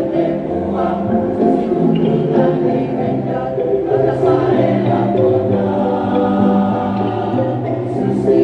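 Mixed choir singing in several-part harmony, holding long sustained chords that change every second or two.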